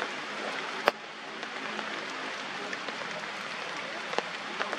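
Steady rain falling on forest foliage, an even hiss with a few sharp drip taps, the loudest about a second in.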